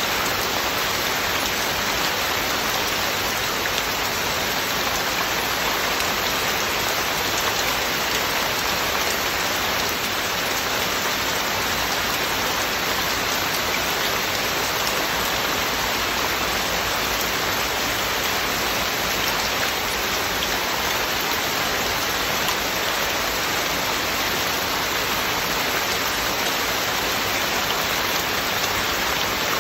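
Heavy rain falling steadily, a dense even hiss of drops on surfaces with no thunder.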